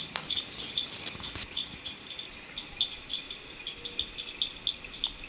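Crickets chirping: short chirps repeating irregularly over a steady high trill. A few sharp clicks and crackles in the first second and a half.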